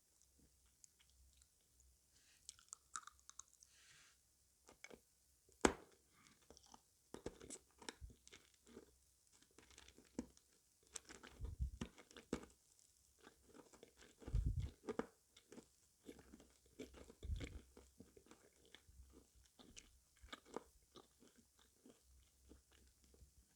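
A person chewing and crunching sweets close up: irregular crunches and mouth clicks, with a few duller low thumps.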